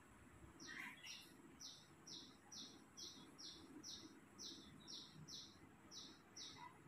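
A small bird chirping a steady run of about a dozen short, high, falling notes, roughly two a second.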